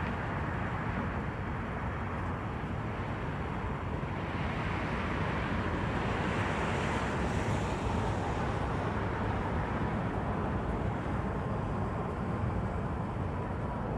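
Airbus A330-300's Rolls-Royce Trent 700 turbofans on approach, a steady rumble with a faint whine, the hiss swelling and easing off around the middle.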